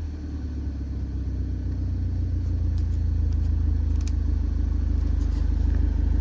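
VW Golf Mk6 GTI's 2.0-litre turbocharged four-cylinder idling through a decatted exhaust with the centre resonator deleted and a Cox tuning backbox: a steady, deep rumble that grows slightly louder.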